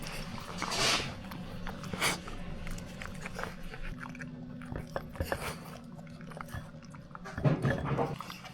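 Eating sounds: chewing and crunching with scattered short clicks, denser and louder near the end.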